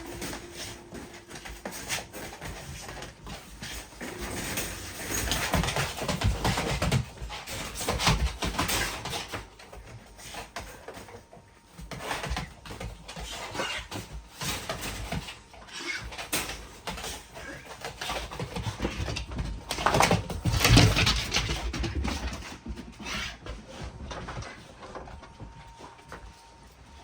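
Dogs moving about close by: irregular rustling and knocking, loudest about twenty seconds in.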